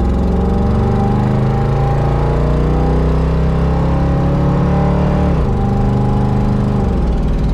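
Ford Ranchero's carburetted V8 under hard acceleration, its pitch rising steadily until about five seconds in, when the revs drop sharply as it shifts up a gear. It then carries on steadily at lower revs. The owner puts its lack of pull down to a dirty carburettor that is not opening its secondary stage.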